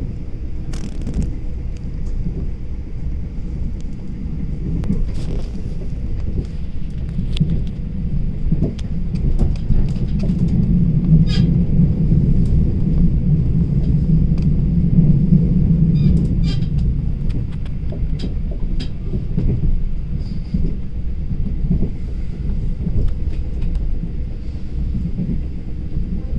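Passenger train in motion, heard from inside the carriage: a steady low rumble of the running train that swells louder around the middle, with scattered light clicks and a faint steady high tone over it.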